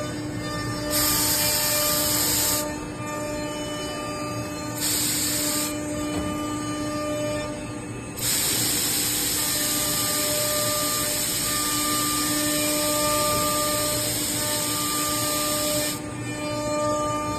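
CNC nesting router machine running, with bursts of loud high hissing that start and stop abruptly: two short ones, then one lasting about eight seconds. Steady tones, likely background music, sit underneath.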